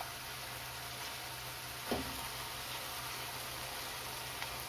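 Onion-tomato masala sizzling steadily in an aluminium kadhai over a turned-up gas flame, with one light spoon knock about two seconds in as tomato sauce is spooned in.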